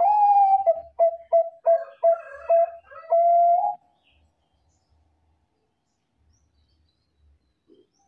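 Zebra dove (Bangkok-type perkutut) singing one cooing phrase. It opens on a long note, runs into a quick string of about six short clipped coos, and ends on a held note, all in under four seconds.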